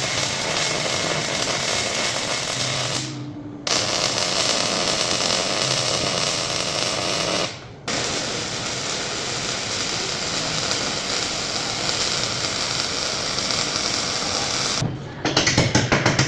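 Electric welding arc crackling steadily on steel plate in long beads, stopping abruptly for a moment about three seconds in and again about seven and a half seconds in. Near the end it gives way to a rapid run of sharp ticks.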